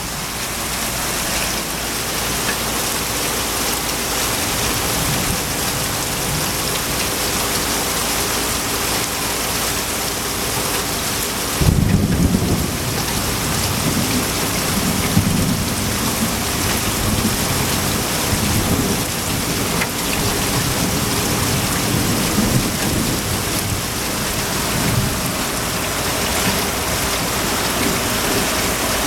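Heavy rain pouring down in sheets, a loud, steady hiss of water hitting the ground. About twelve seconds in, a low rumble of thunder sets in and keeps rolling underneath the rain.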